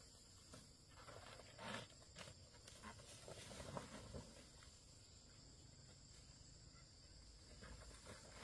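Faint, steady high insect chirring, like crickets, with scattered soft rustles and knocks in the first half.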